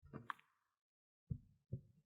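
Close-up handling of the Google Pixel Watch's box and packaging: a brief scrape ending in a click, then two soft low thumps about half a second apart.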